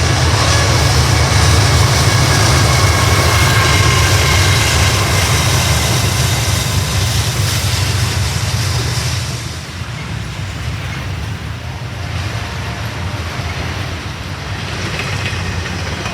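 BNSF freight train rolling past close by: a heavy steady rumble of the wheels on the rails, with faint thin squeals from the wheels over it. It eases off about nine seconds in, but the rolling noise goes on.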